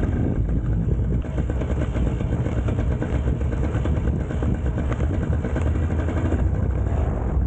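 Paramotor engine running steadily, a constant rapid pulsing mechanical drone.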